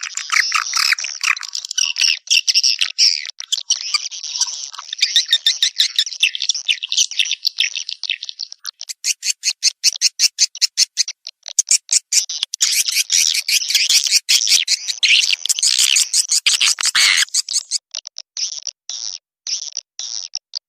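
Swiftlet lure call: a dense, fast twittering of high chirps and squeaks from swiftlets. Near the end it changes to a regular run of short chirps, a couple a second.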